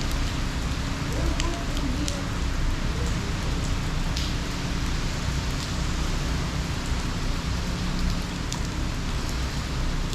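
Hurricane rain pouring steadily, with scattered sharp drip ticks.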